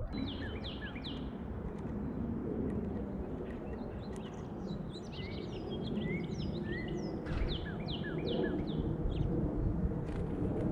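Small songbirds calling with many short, quick chirps, most falling in pitch, over a steady low background rumble.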